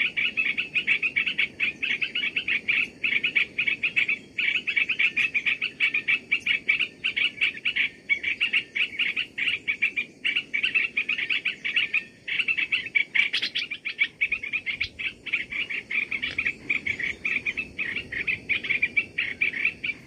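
Birds chirping rapidly and without a break, a dense stream of high chirps.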